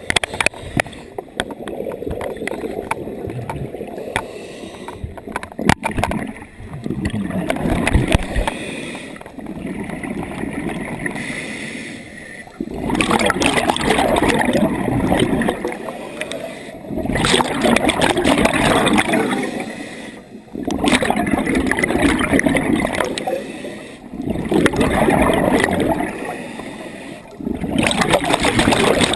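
Scuba diver breathing underwater through a regulator, with bubbling exhalations. The breaths are irregular at first, then settle into long bubbling bursts about every four seconds.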